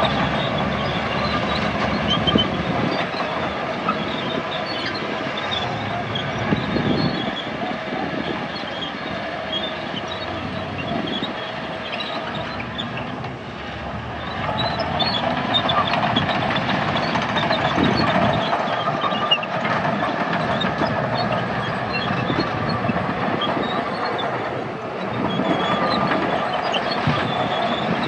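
Heavy diesel earthmoving machinery running steadily under load, with many small high squeaks and clicks over the engine. The engine eases off briefly twice and comes back up.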